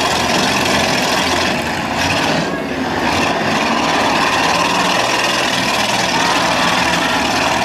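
Demolition derby cars' engines running together, a loud, steady mass of engine noise.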